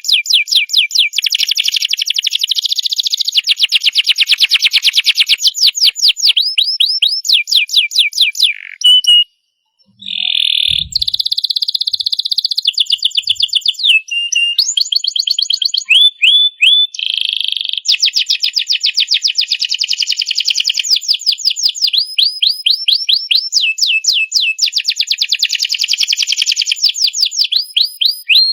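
Domestic canary singing a long song of rapid trills, fast runs of repeated high notes that change from phrase to phrase, with one short pause about nine seconds in.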